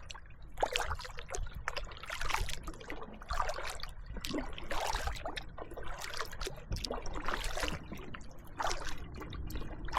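Kayak paddle blades dipping and pulling through the water, with splashing and trickling drips, about one stroke a second.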